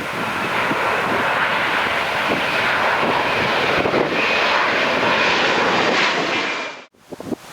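Airliner engines running loud and steady as a plane passes, with a faint high whine over the noise in the second half; the sound cuts off abruptly near the end, with wind buffeting the microphone.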